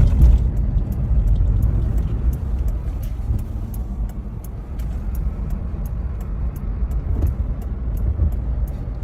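A car driving, its engine and road noise a steady low rumble, with faint ticks at an even pace.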